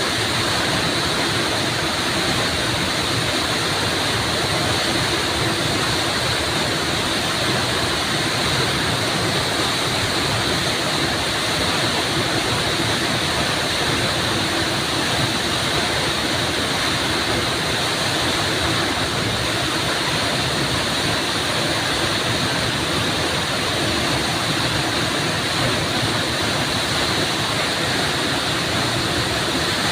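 Waterfall splashing and rushing steadily: a continuous, even roar of falling water.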